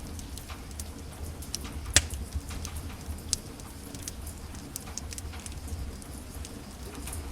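Wood fire burning in a fireplace, crackling with irregular small snaps over a low steady rumble. One loud pop comes about two seconds in and a smaller one a little later.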